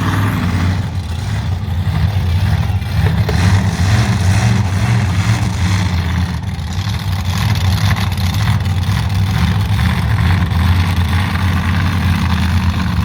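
Monster truck's engine running steadily and loudly, low-pitched, with slight rises and falls in engine speed.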